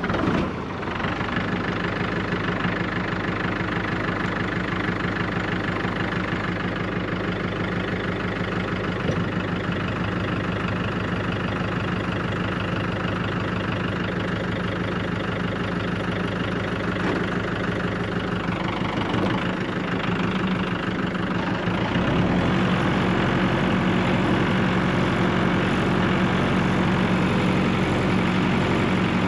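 Tractor engine running steadily just after start-up; about 22 seconds in its note changes and it gets a little louder.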